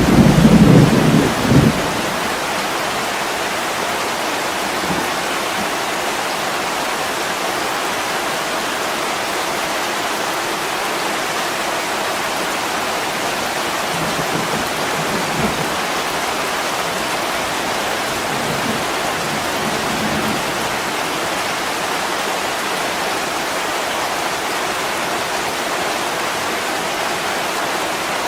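Steady heavy rain pouring down, an even hiss. A low thunder rumble fades out about two seconds in, and fainter low rumbles come twice later on.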